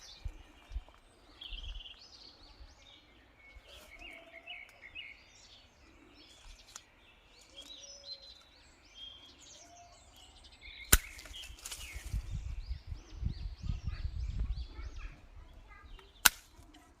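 Wild birds chirping and singing, many short calls overlapping. A low rumble rises for a few seconds past the middle, and two sharp clicks stand out, one about two-thirds of the way in and one near the end.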